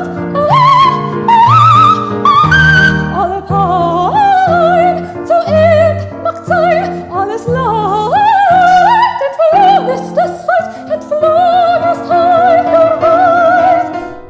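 Soprano singing a wordless operatic passage with strong vibrato, quick runs and upward leaps, over sustained accompaniment chords. The voice stops near the end.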